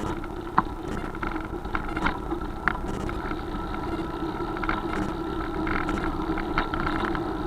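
Steady riding noise from a bike on the move: a low rumble with a constant hum, broken by scattered sharp clicks and rattles.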